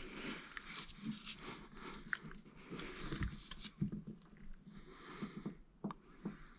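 Faint, irregular clicks and light taps from hands and tools handling parts.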